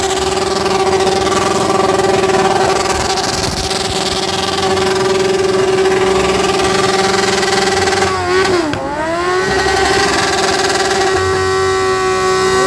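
Motorcycle engine held at high revs in a steady high note while the rider spins a donut; about eight and a half seconds in the pitch dips sharply and then climbs back.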